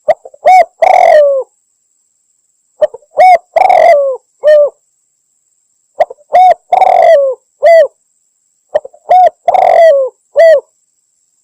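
Spotted dove (tekukur) cooing, a recorded hunter's lure call presented as a female calling in males. Four phrases come about every three seconds, each a short coo, a longer rough coo and another short coo.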